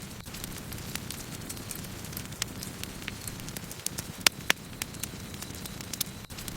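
Campfire burning with a steady low rush of flames and frequent sharp crackles and pops from the burning wood, two loud pops close together a little past the middle.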